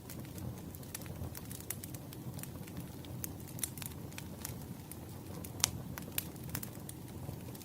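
Wood fire burning, with irregular sharp crackles and pops of the firewood over a soft steady low rush; one louder pop about five and a half seconds in.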